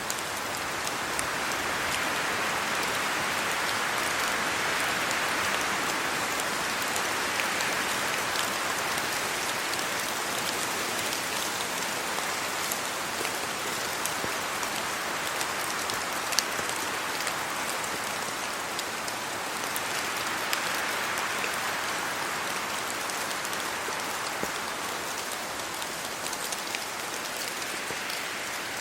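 Steady rain falling on trees and leaves, with scattered single drops ticking sharply. The hiss swells a little a few seconds in and again about twenty seconds in.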